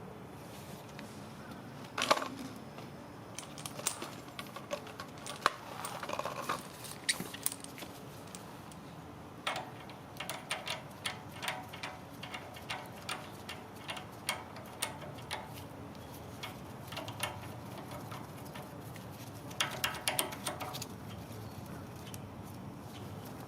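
Light metallic clicks and clinks of small tools and hardware being handled during work on a pressure washer's fuel tank, coming in scattered groups, with the sharpest knock about two seconds in.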